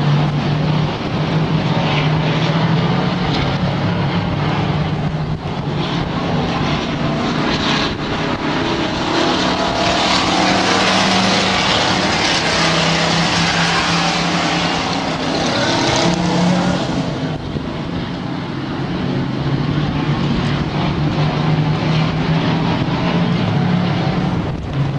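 Racing stock trucks' engines running hard around a dirt oval, several engines together at a steady drone. A louder rushing surge builds about ten seconds in and dies away near seventeen seconds, as the pack comes close by.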